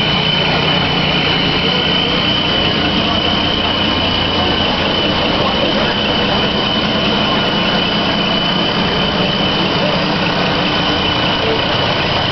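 Scania truck's diesel engine idling steadily, with a thin high whine held at one pitch over the engine noise.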